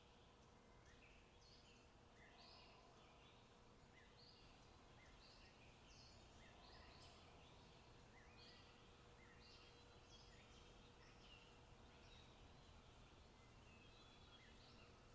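Faint forest ambience with small birds calling: many short high chirps and notes that come and go throughout, over a low, steady background hiss.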